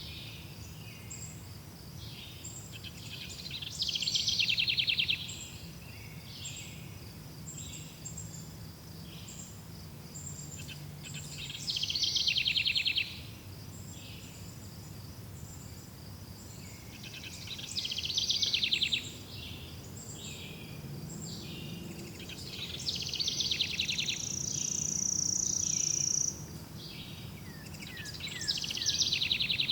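Forest songbirds singing, with a loud rapid trilled phrase every five or six seconds and one long high whistled note near the end. Underneath runs a faint, evenly repeated high chirping and a low steady rumble.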